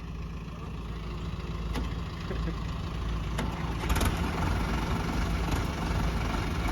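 Diesel tractor engines running hard under load while pulling in a tug-of-war. The engine noise grows louder through the first half and then holds, with a few sharp clicks.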